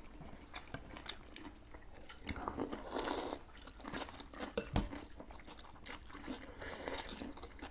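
Close-miked chewing and crunching of mohinga noodle soup, with scattered sharp clicks and two longer noisy stretches, about two and a half seconds in and near the end.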